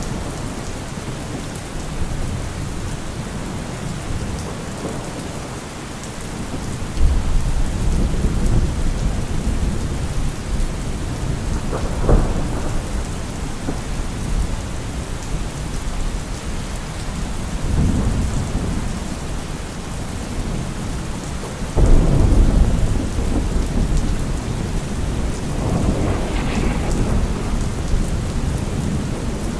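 Thunderstorm: steady rain with rolling thunder. Low rumbles break in suddenly about a quarter of the way in and again about three quarters through, with a sharper crack between them.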